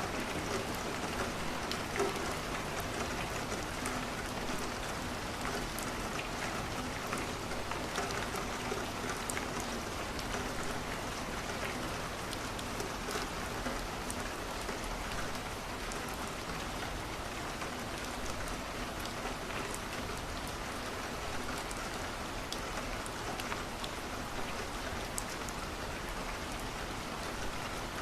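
Steady rain falling against a window, with the scattered small crackles of a wood fire burning in a fireplace.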